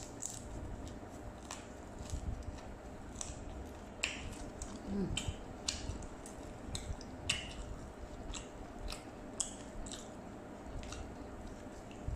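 A person chewing and eating fried rice vermicelli by hand, with scattered short clicks and smacks from the mouth and fingers.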